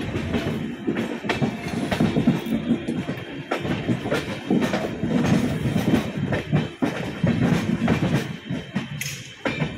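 12964 Mewar Express passenger train running on the track, its wheels clattering over rail joints and points with frequent irregular clicks and knocks over a low rumble.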